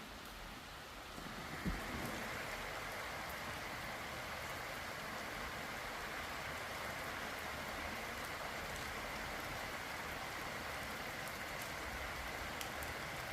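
Steady rain falling outside an open window, an even hiss. A single brief thump comes just under two seconds in, after which the rain sounds slightly louder.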